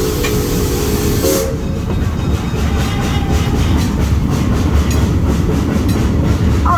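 A passenger train running, heard from on board. The train's whistle sounds a steady chord that cuts off about a second and a half in, then the running rumble goes on with a regular clickety-clack of wheels over rail joints.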